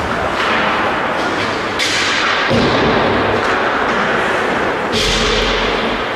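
Gameplay noise echoing in a large hall: a steady din broken by sharp hits and thuds, the loudest about half a second, two seconds and five seconds in.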